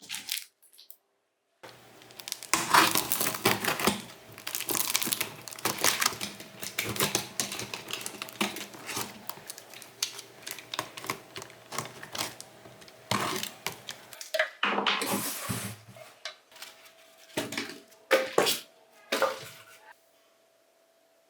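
Metal parts clattering, knocking and scraping in quick irregular strings, with a faint steady hum underneath. It stops about twenty seconds in.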